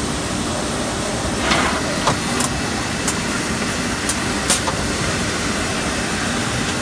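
CNC five-sided panel drilling machine running: a steady hiss of machine noise with a few sharp clicks and knocks in the middle.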